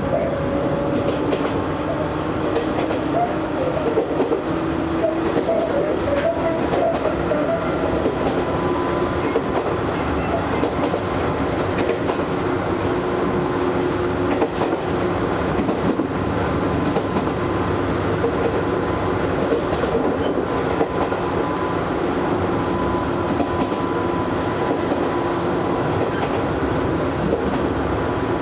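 Running noise inside the cabin of an Izu Hakone Railway Series 3000 resistance-controlled electric train between stations: a steady rumble of wheels on rail with a faint even hum, and now and then a click from the rail joints.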